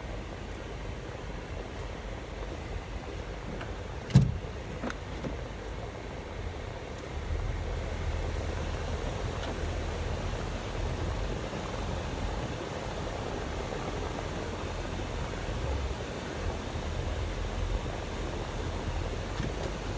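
Inside a car cabin: the air-conditioning blower and the car running make a steady noise. There is one sharp thump about four seconds in, and a low rumble grows louder about seven seconds in.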